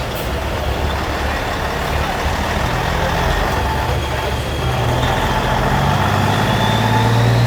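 Diesel engine of a Peterbilt semi-truck running as it rolls past, a steady low rumble whose engine note grows louder toward the end.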